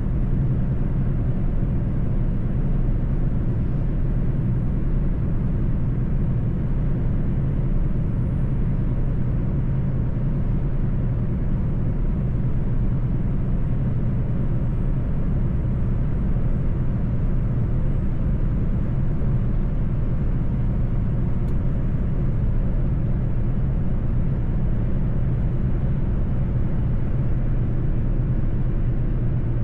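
Mercedes-Benz truck's diesel engine running under way, a steady low drone with road rumble at an even level.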